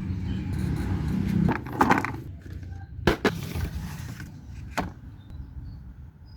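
A few sharp knocks and clanks, three of them spaced a second or more apart, over a low rumble that fades out in the first second and a half.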